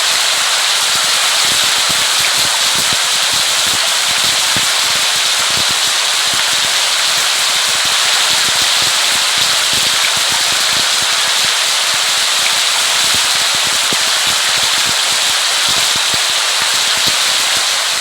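Steady heavy rain, a dense crackling patter of close drops over a constant hiss, fading out near the end.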